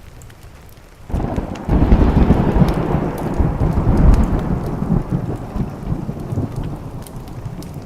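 A rumble of thunder breaks in about a second in, swells quickly into a loud low roll and slowly dies away over the next five seconds, over steady rain on a window.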